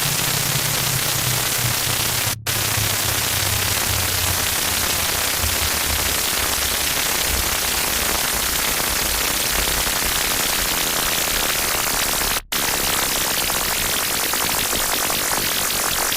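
Loud, harsh static noise, with a low droning tone sliding slowly downward underneath in the first half. The sound cuts out for an instant twice, about two seconds in and again about twelve seconds in.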